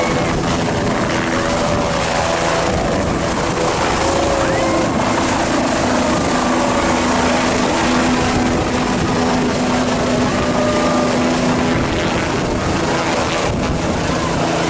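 Aircraft engine running steadily, a loud constant drone with a low hum that holds steady through the middle, over wind buffeting the microphone.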